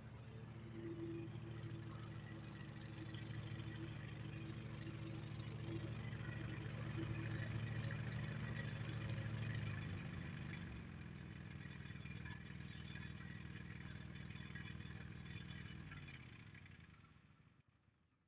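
A Poulan Pro riding lawnmower's 25-horsepower engine running steadily. Its note drops about ten seconds in, and it then shuts off and winds down to silence about two seconds before the end.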